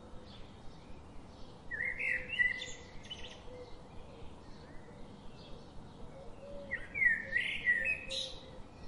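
Bird song: two loud phrases of quick gliding whistles and chirps, one about two seconds in and one near the end, with fainter chirps from other birds in between.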